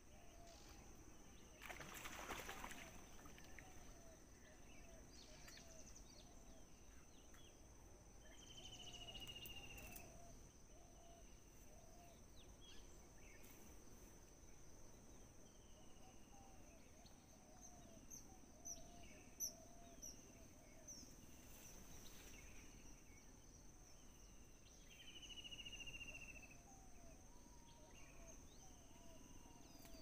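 Faint birdsong: a clear descending whistle repeated every few seconds, with softer lower chirps, over a steady high thin drone. A brief noisy rush about two seconds in.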